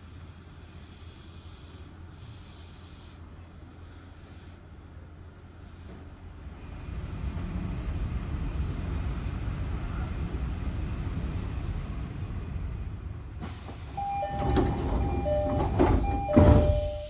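Trains passing on nearby tracks while the train stands at a station: a low rumble swells about six seconds in. Near the end comes a louder rush with a high whine falling in pitch and short repeated two-note tones.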